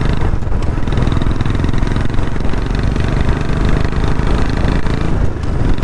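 Royal Enfield Bullet 350 single-cylinder engine running through an aftermarket free-flow silencer, cruising steadily at highway speed. The exhaust beats come in a rapid, even rhythm with no revving up or down.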